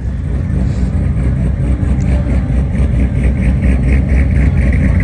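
Car engine running close by with a deep, steady rumble, growing a little louder in the first second.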